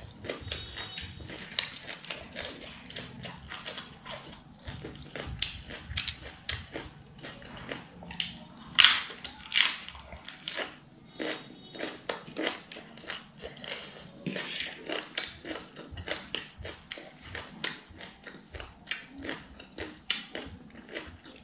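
Close-up chewing and crunching of raw cabbage-leaf wraps with a crispy filling, eaten by hand. Irregular crisp crunches come several a second, and the loudest bites fall around nine to ten seconds in.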